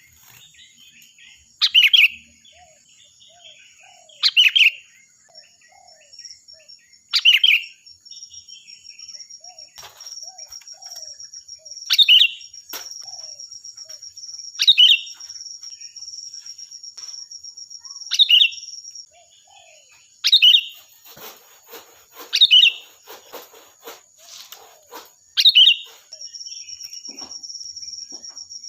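A sooty-headed bulbul calls loudly, giving short, clear phrases about every two to three seconds. Behind them runs a steady, high, thin trill with softer chatter.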